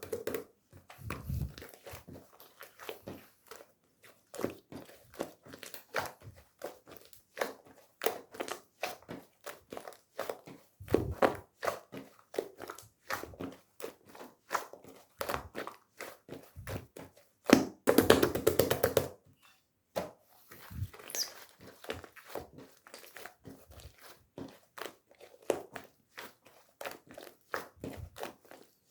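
Close, irregular taps, clicks and crinkles of hands handling a soft squishy toy and its craft materials, with a louder, denser stretch of handling about two-thirds of the way through.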